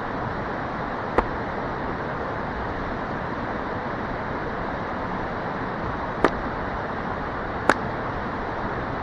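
Three sharp knocks from a wooden baton striking an axe head to drive it through a knotty log for splitting: one about a second in, then two a second and a half apart near the end. A steady rushing noise runs underneath.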